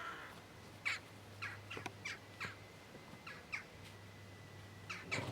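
Birds calling nearby: a string of short, sharp, falling calls, several a second at times, over a low steady hum.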